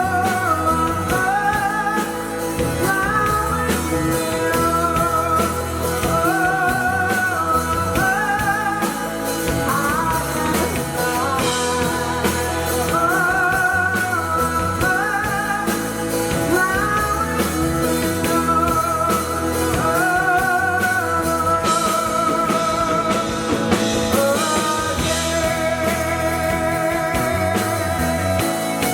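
Rock band playing live: a singer holds long wavering notes over guitar, bass and drums.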